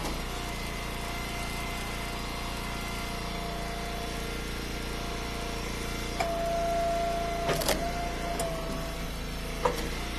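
Eastonmade Ultra wood splitter's engine running steadily, with a change in tone about six seconds in and a sharp knock about a second and a half later.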